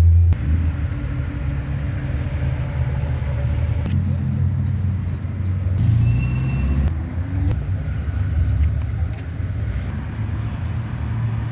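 Car engines running with a low rumble, their pitch and loudness shifting as the cars move.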